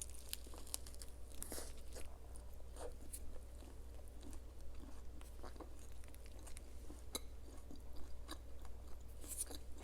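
A person chewing and crunching food close to the microphone, with scattered small crackles and clicks, over a low steady hum.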